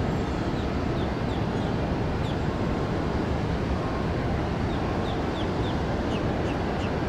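Steady low rumbling noise with a small bird chirping over it: short, quick high notes scattered through, coming more often in the second half.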